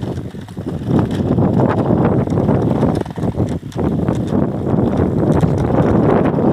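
Wind buffeting the microphone over the knocks and rattles of an e-bike riding over a rough off-road track, easing briefly about three seconds in.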